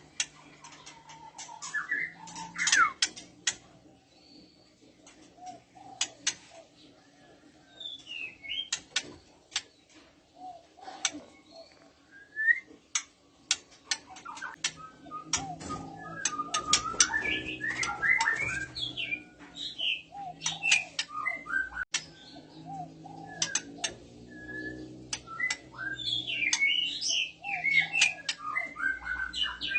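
Female white-rumped shama calling in breeding condition: short whistled, gliding phrases broken up by many sharp ticking clicks. The calling grows busier partway through and again near the end.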